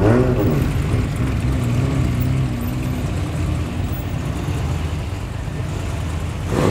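Engine of a 1970s Ford sedan running as the car rolls slowly past. A steady low burble eases off after about three seconds to a quieter rumble.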